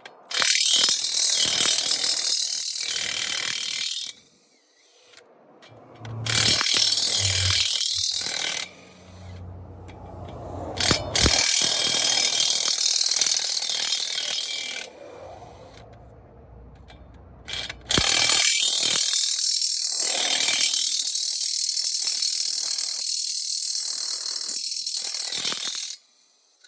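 Impact wrench spinning lug nuts on a truck trailer wheel during a flat-tire change, in four long rattling bursts, each with a motor whine that rises and falls, with short pauses between.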